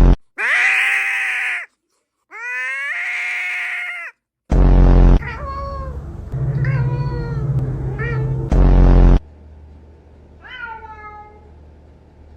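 Domestic cat meowing over and over: long, drawn-out meows whose pitch slides up and down, with a fainter, shorter meow near the end. Twice a short, loud, low-heavy burst cuts in between them.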